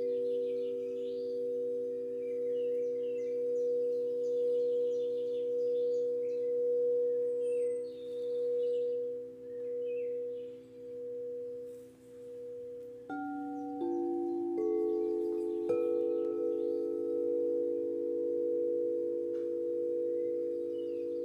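Singing bowls ringing in long sustained tones that swell and fade slowly; a little past the middle, new bowls are struck one after another and ring on. Birds chirp faintly in the background during the first half.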